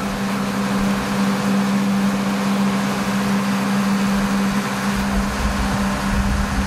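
Heavy rain falling hard in a windy downpour, a steady, even rush, with a steady low hum running underneath.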